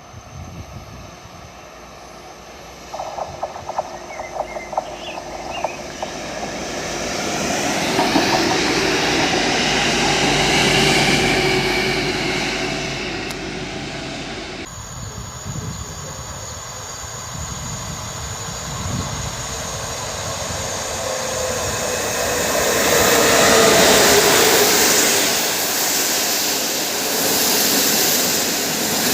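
Electric trains on the line: the first goes by with a quick run of wheel clicks over rail joints and a swelling rumble. After a sudden cut, a second train approaches and goes by, loudest near the end, with a tone that falls in pitch as it passes.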